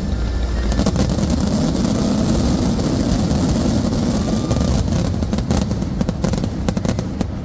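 A dense barrage of aerial firework shells bursting together: a continuous rumble with crackling, and a run of sharp bangs in the second half.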